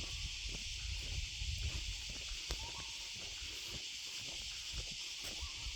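Steady, high insect drone of a tropical forest, with irregular footsteps and soft rustling on the forest floor.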